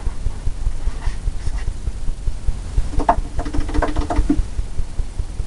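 Oil-paint brush being cleaned and beaten out: a rapid run of low, dull thumps, several a second, as the brush is knocked to throw off the excess thinner. A short, voice-like pitched sound comes about three seconds in.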